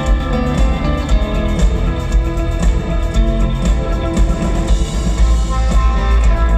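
Live rock band with a symphony orchestra playing, electric guitar and drums to the fore over a heavy bass.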